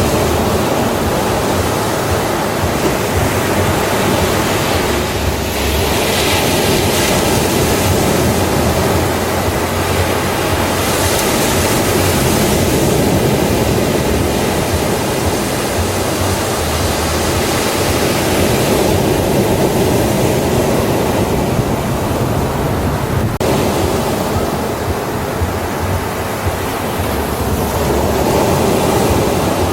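Ocean waves breaking on a beach, a continuous loud wash of surf that swells and eases every several seconds.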